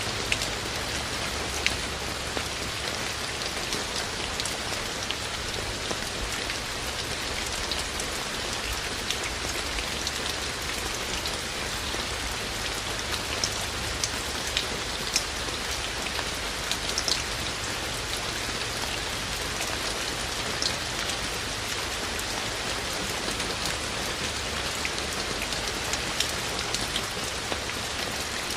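Steady rain falling, a continuous hiss with the sharp taps of single drops scattered through it.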